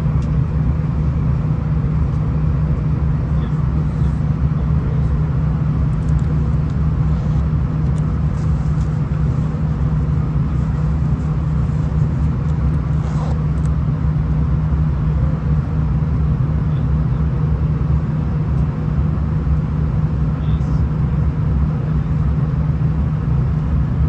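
Onboard running noise of a V/Line VLocity diesel multiple unit under way: a steady low rumble of engine and wheels on the track, with a few faint clicks.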